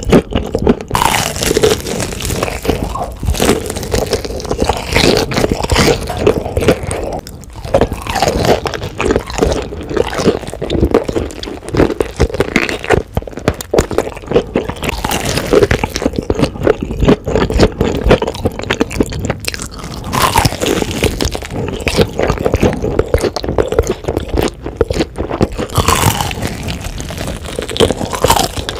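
Crispy fried chicken drumsticks being bitten and chewed close to the microphone: the thick breading crunches in many quick, irregular crackles, mixed with wet chewing of the meat.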